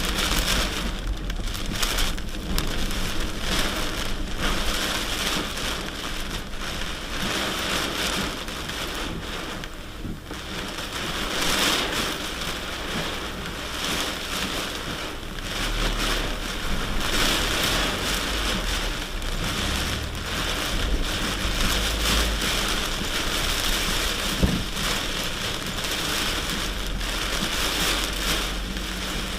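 Truck driving along: a steady hiss over a low engine and road rumble, with one short knock about three-quarters of the way through.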